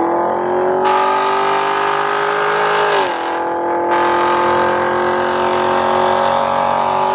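A car engine held at high revs, its pitch steady, stepping down slightly about three seconds in and then holding again, with a rushing noise over it.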